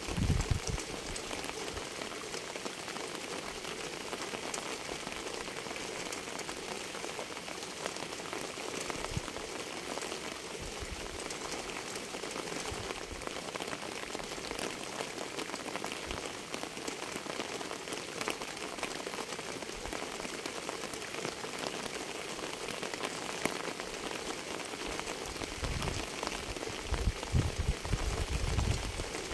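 Steady rain falling on a hard surface: a dense, even hiss full of small individual drop ticks. Deep low rumbles come in during the first second and again over the last few seconds, the loudest parts of the recording.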